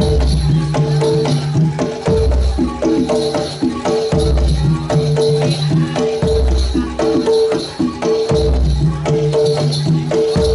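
Live jaranan dor ensemble music: a Javanese gamelan-style melody over drums and rattling jingles, with a deep low stroke about every two seconds.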